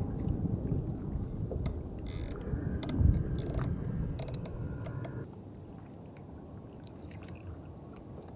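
Low rumbling water and wind noise on a small wooden canoe at sea, with scattered light clicks and a knock about three seconds in; the rumble drops off about five seconds in.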